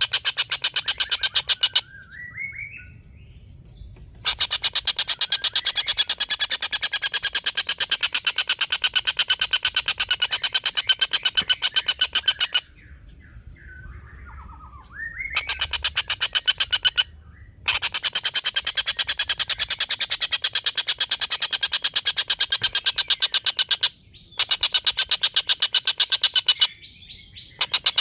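Collared kingfisher giving long cackling runs of rapid, harsh repeated 'kek' notes, each run lasting several seconds, with short pauses between the runs in which softer sliding notes are heard.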